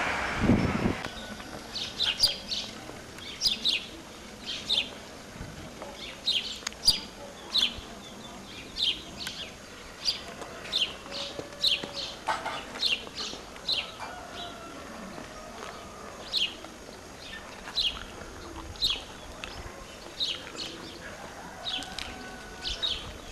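Small birds chirping, short high chirps repeated about once or twice a second over faint outdoor background noise. A brief rush of louder noise cuts off within the first second.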